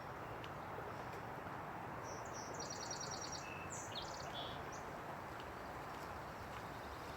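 A small songbird singing a quick run of high chirps and trills for about two seconds, starting a couple of seconds in, over a steady outdoor background hiss.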